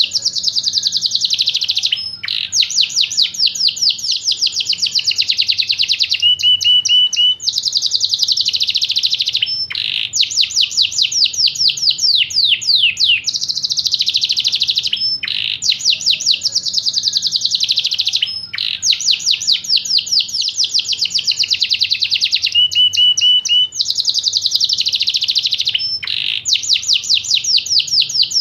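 Yorkshire canary singing a long song of fast, high trills in phrases of a few seconds, each broken by a brief pause, with short runs of lower repeated notes twice.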